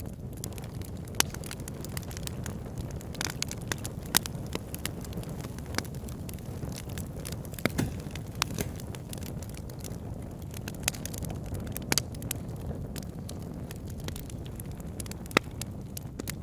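Wood fire burning in a fireplace: a steady low rumble of flames with irregular sharp crackles and pops, the loudest about 1, 4, 12 and 15 seconds in.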